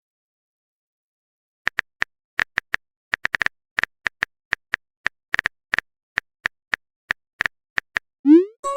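Smartphone keyboard typing clicks: about twenty short, sharp taps at an uneven typing pace, starting almost two seconds in. Near the end a short rising tone begins.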